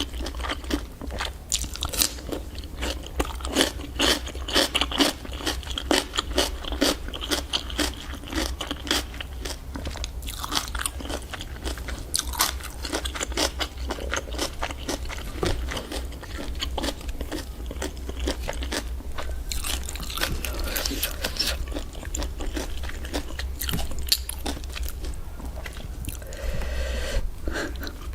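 Eating giant octopus: a quick run of crunching bites and chewing, thickest in the first half, over a steady low hum.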